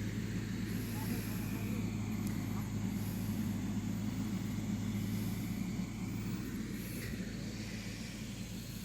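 Motor grader's diesel engine running steadily as it grades the road surface, a deep even drone.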